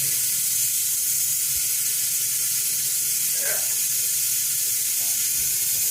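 Steady, even hiss of pressurised gas rushing out at a lawn-tractor tire as its bead is being seated, starting abruptly just before and holding level throughout.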